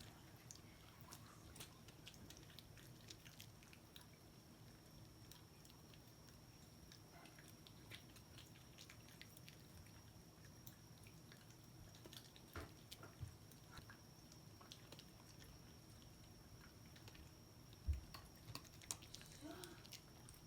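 Shiba Inu eating her dinner: faint, scattered clicks and crunches of chewing, busier in the second half, with a louder knock about 18 seconds in.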